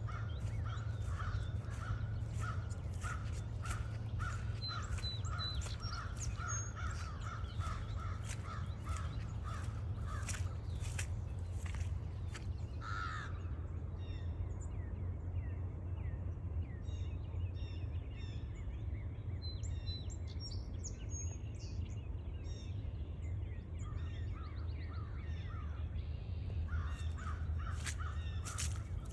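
A bird calls a long, even series of harsh notes, about two a second, which stops about twelve seconds in. Other small birds chirp scattered through the rest, over footsteps on the trail.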